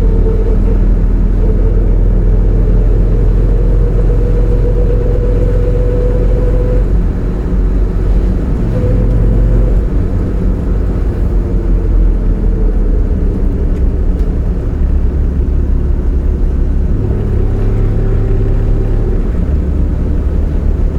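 Triumph TR6 PI's 2.5-litre fuel-injected straight-six and drivetrain running steadily, with a whine that comes and goes over the engine rumble, rising slightly in pitch: the unidentified noise, suspected to come from the gearbox or overdrive.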